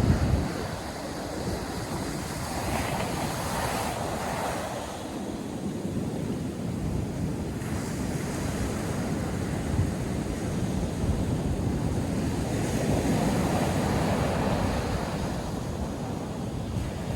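North Sea surf breaking and washing on the beach, a continuous rushing with slow swells as waves come in, and wind buffeting the microphone underneath.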